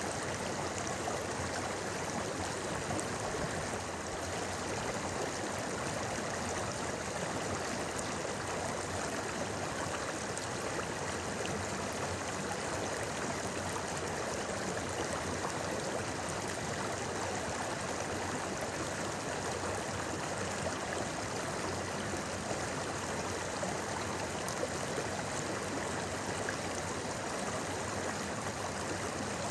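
A river's flowing water babbling steadily, an even rushing murmur that doesn't let up.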